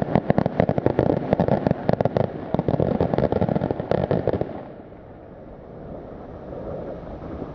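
Fireworks going off in a rapid barrage of sharp bangs and crackles, several a second, that stops suddenly about four and a half seconds in, leaving only low background noise.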